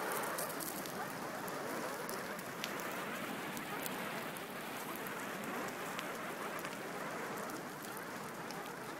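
A fire burning with a steady rushing hiss, broken by a few sharp crackling pops.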